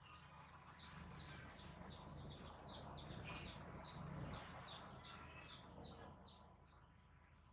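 Birds chirping faintly: a steady run of short, high chirps, several a second, over a low background hum.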